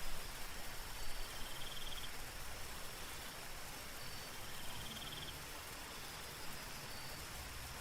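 Soft rain falling steadily, with a night insect giving short high trills about every three seconds over a faint, steady, high-pitched drone.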